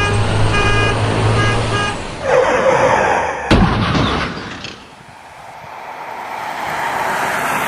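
Storm sound effects: rushing noise with a single sharp crack of thunder about three and a half seconds in. The noise then dies down and swells back up. It opens with about two seconds of steady pulsing tones.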